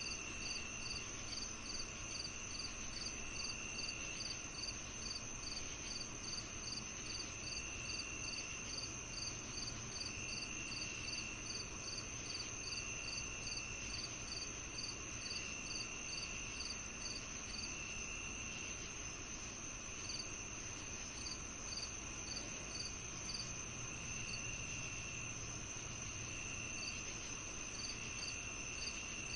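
Evening chorus of crickets and other insects. One keeps a steady high trill, another gives quick, evenly spaced chirps, and a lower trill comes and goes about every two seconds.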